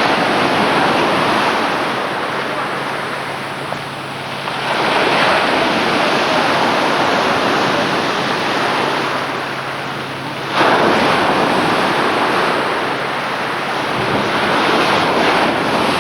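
Sea waves washing in and breaking in surges, one starting suddenly about two-thirds of the way in, with wind buffeting the microphone and a faint steady low hum underneath.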